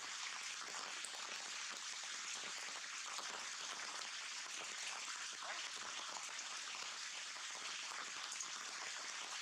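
Heavy rain falling steadily, a dense hiss of drops with many small patters and ticks.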